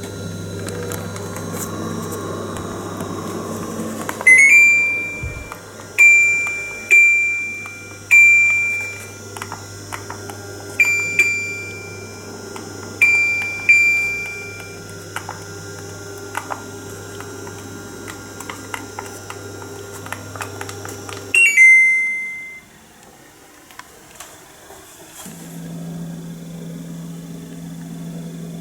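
Split air conditioner indoor unit beeping: about eight short, high beeps over ten seconds with light clicks between them, over a steady low hum. A last beep comes about two-thirds of the way through, and the hum stops abruptly with it. Near the end a different, lower-level hum starts.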